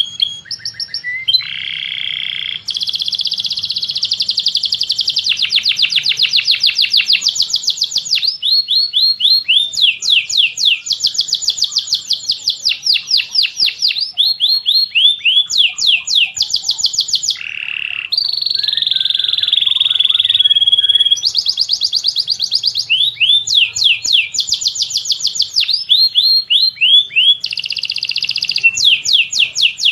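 Songbird singing without pause in fast trills of repeated sweeping notes, about ten a second, mixed with long buzzy rolls, high-pitched and clear.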